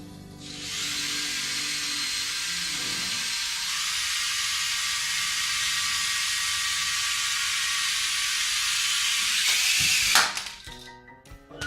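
Small electric motor and rotor of a flying toy helicopter ball whirring steadily with a high-pitched hiss, ending with a sharp loud peak near the end before the whir drops away.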